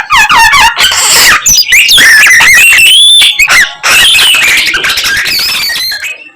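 Young greater racket-tailed drongo (garugiwa) singing vigorously: a rapid, ever-changing run of whistles sliding up and down, quick trills and harsh buzzy notes, typical of this bird's mimicking song.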